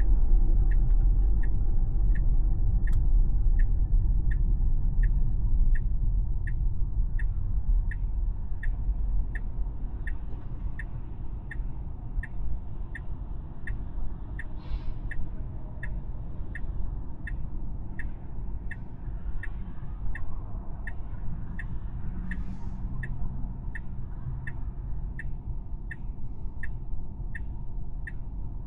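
Tesla turn-signal indicator ticking evenly, a little under two clicks a second, over a low road and tyre rumble that fades over the first several seconds.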